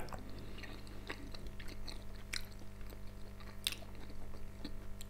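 Faint chewing of a mouthful of homemade pelmeni, with a few soft mouth clicks, over a low steady hum.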